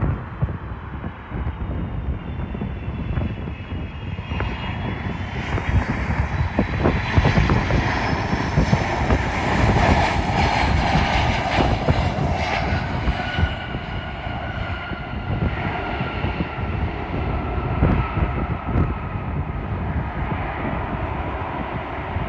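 An airliner on landing approach passing low overhead: a rising engine rush that is loudest about halfway through and then fades, with a whine that falls in pitch as the plane goes by.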